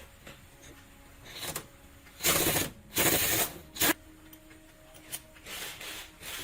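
Pneumatic impact wrench run in short bursts of about half a second on a truck wheel's lug nuts. The two loudest bursts come back to back near the middle, with a brief one after them and a few weaker ones before and later.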